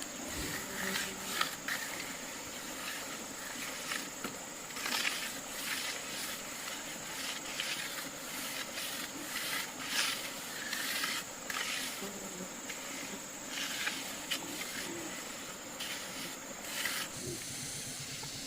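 A steady high-pitched insect drone with irregular rustling and scraping strokes over it, about one every second or two, as from hand work with wood or brush.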